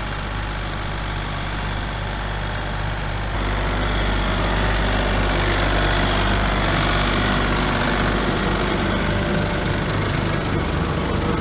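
Small tractor engine running steadily. About three seconds in the sound steps up abruptly, louder and fuller.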